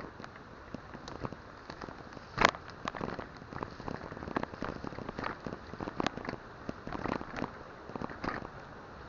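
Bike tyres rolling over a rough gravel track, the stones and the bike giving an irregular run of clicks and crackles, with one sharp knock about two and a half seconds in.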